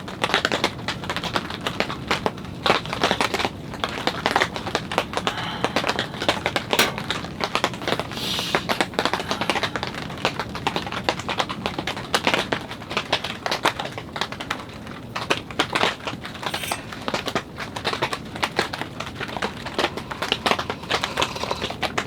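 Rain falling on tent fabric: a dense, irregular patter of drops tapping overhead, steady throughout.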